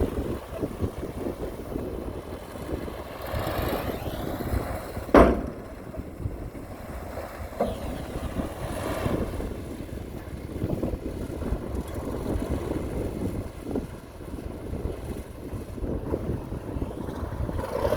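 Heavy earthmoving machinery running, a low uneven diesel rumble, with a single sharp bang about five seconds in.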